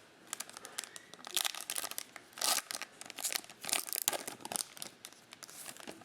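Foil trading-card pack wrapper being torn open and crinkled by hand, a run of irregular crackling bursts that is loudest in the middle.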